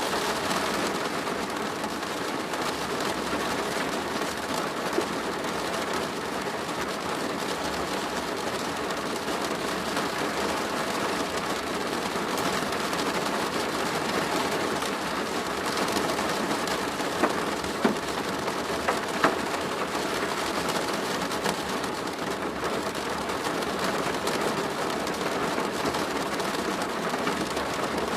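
Steady rain falling on a plastic roof: a dense, even patter, with a few louder single drops striking sharply about five seconds in and again near two-thirds of the way through.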